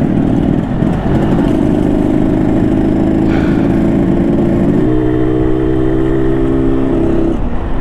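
Yamaha RX-King's two-stroke single-cylinder engine running under way, heard from the rider's seat. Its note changes to a steadier pitch about five seconds in and drops away shortly before the end.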